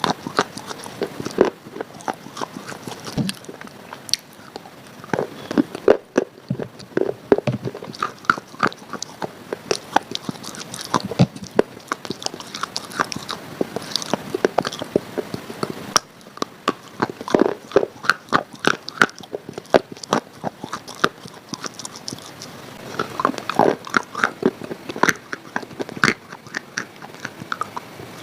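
Close-up crunchy biting and chewing: dense, irregular crisp crunches, one after another.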